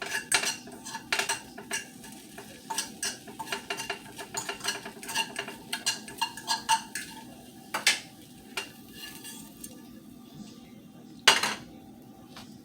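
Utensil clinking and scraping against a bowl as food is stirred and spooned in, many quick clicks for the first eight seconds or so, then fewer, with one louder knock near the end.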